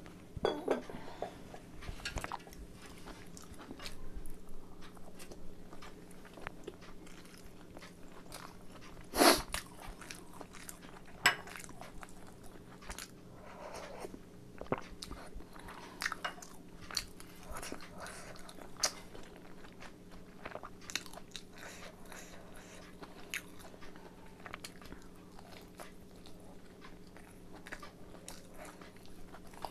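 Close-miked chewing and biting of chicken momos: wet mouth clicks and smacks throughout, the loudest about nine seconds in, over a faint steady hum.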